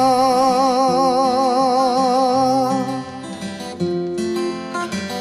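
A male voice holds a sung note with wide vibrato for about three seconds over strummed acoustic guitar, then the acoustic guitar carries on alone into an instrumental break.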